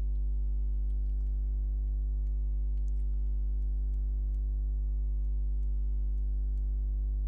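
Steady low electrical hum, the loudest sound, with faint irregular computer-keyboard keystrokes clicking over it.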